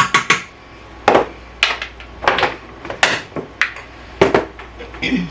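A metal spoon knocking and clinking against a container and mixing bowl in a series of sharp, irregular taps, about two a second, as sugar is scooped and measured in by the tablespoon.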